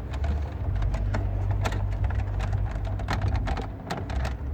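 Irregular light clicks and taps of plastic dashboard trim and clips being handled and fitted, over a steady low rumble.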